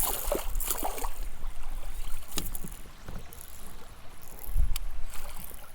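Water splashing around a kayak, then scattered knocks and a couple of sharp clicks on the kayak as a landed pike is handled aboard.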